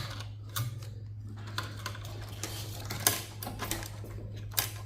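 Scattered clicks and clinks of metal server parts and tools being handled during a teardown, the loudest knocks about three seconds in and near the end, over a steady low hum.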